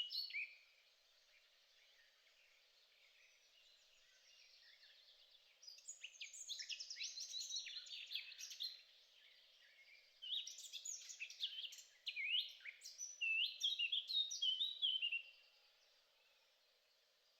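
A small songbird singing in fast runs of high chirps and twitters, in three phrases a few seconds apart, over a faint steady background hum.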